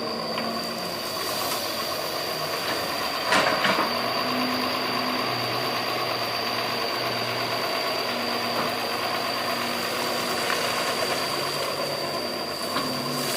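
Doosan 140 excavator's diesel engine running steadily, with a steady high whine over it and a single sharp knock about three seconds in.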